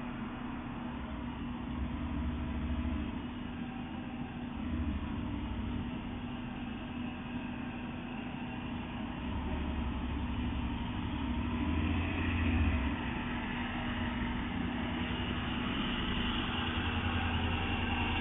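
A car engine running, with a steady hum and a low rumble that comes and goes, louder toward the end.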